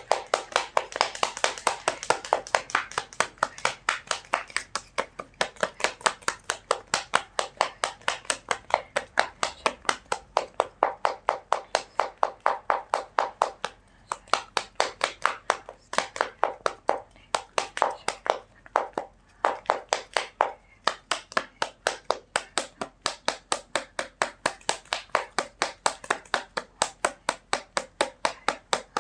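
A deck of tarot cards being shuffled by hand, the cards slapping together in a steady rhythm of about three strikes a second, with a couple of short breaks partway through.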